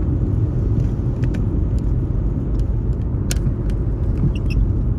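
Steady low rumble of car cabin noise, with a few faint ticks and a sharper click a little past the middle.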